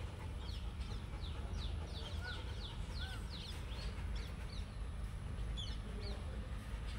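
A small bird chirping: a quick run of short falling chirps, about four a second, then a couple more near the end, over a steady low rumble.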